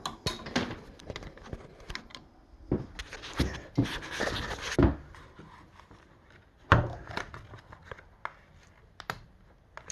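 Handling noises of a chainsaw being lifted out of a stand and moved about: scattered knocks and clicks, a short scraping, rustling stretch around four seconds in, and a sharp knock a little before seven seconds. The engine is not running.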